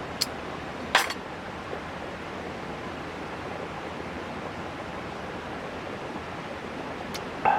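Steady hiss with a couple of sharp clicks within the first second, and a knock followed by a short ringing tone at the very end.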